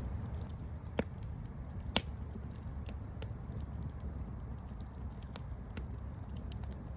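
Campfire burning with a steady low rumble and scattered sharp crackles, two louder pops about one and two seconds in, the second the loudest.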